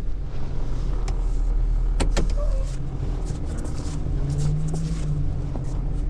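Tow truck's engine running as it rolls up, with a steady low hum and a few clicks and rattles, the sharpest about two seconds in.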